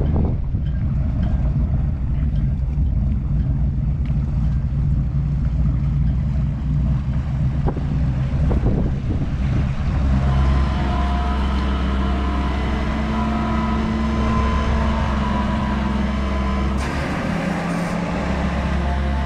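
A vehicle engine running steadily. About halfway through, music with held tones comes in over it.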